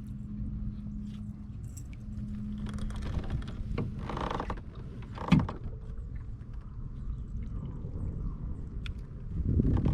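Small knocks and rattles of gear being handled in a kayak, with one sharp knock about five seconds in and a louder clatter near the end, over a low steady rumble and a low hum in the first three seconds.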